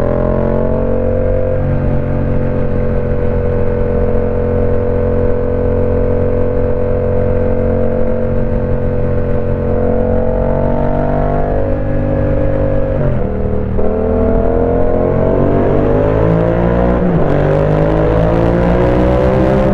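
Yamaha Tracer 700's parallel-twin engine through a full TEC exhaust, running at a steady engine speed, then the revs drop suddenly about thirteen seconds in and climb again, with a brief dip near the end before rising once more, as if accelerating through the gears.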